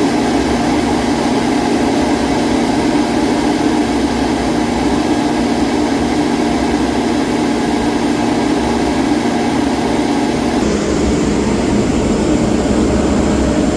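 Oil-fired boiler burner running with a loud steady drone while its oil feed is being turned up during a combustion tune-up. The tone changes about eleven seconds in.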